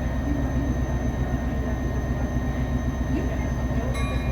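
EMD F40PHM-2 diesel locomotive, with its 16-cylinder EMD 645 engine, running steadily under load with a constant low rumble, heard from the open coach right behind it. A high ringing tone starts near the end.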